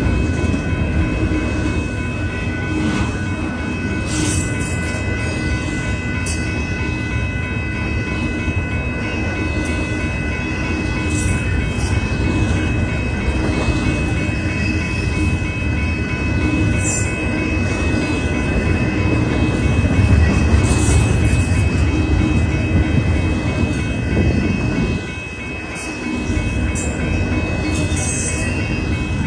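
Double-stack intermodal freight cars rolling past at close range: a continuous loud rumble and rattle of steel wheels on rail, with short high screeches every few seconds. The rumble dips briefly about 25 seconds in.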